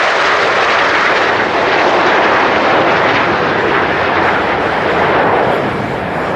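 Jet engines of PZL TS-11 Iskra trainers flying past in formation: a loud, steady jet rush that eases slightly near the end.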